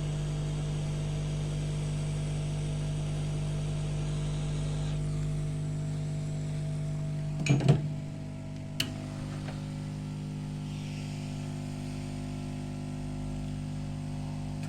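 Steady electric motor or fan hum from workbench equipment, with a short clatter of clicks about halfway through and a single click a second later, after which the hum drops a little in level.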